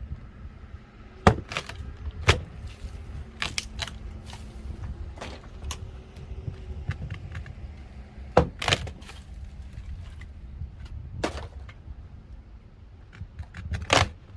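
Old wooden mud plate being broken out of the bottom of a wall: irregular sharp knocks and cracks, about nine in all, over a steady low rumble.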